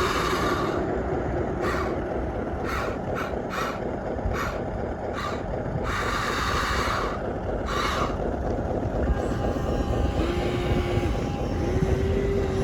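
Electric motors of radio-controlled toy construction machines (excavator and dump truck) whirring in a string of short bursts, over a steady low rumble; near the end a steady hum sets in.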